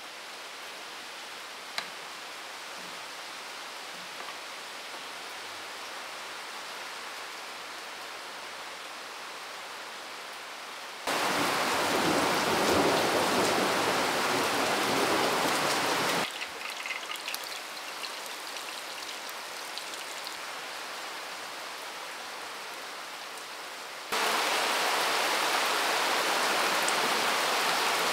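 Steady rushing, rain-like water noise. It turns abruptly much louder twice, for about five seconds each time, about a third of the way in and again near the end, starting and stopping sharply.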